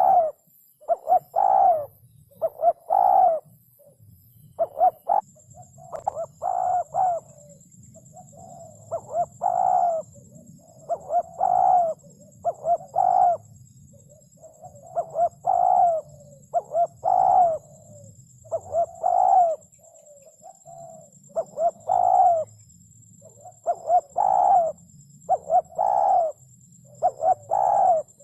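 Spotted dove cooing over and over, in phrases of short and drawn-out coos that repeat every second or two.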